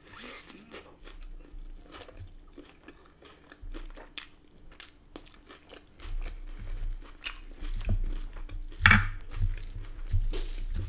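Close-up chewing and crunching of a mouthful of salad with crisp lettuce and battered chicken. From about six seconds in, a wooden spoon scoops and knocks through the food in a glass dish, with one sharper knock near the end.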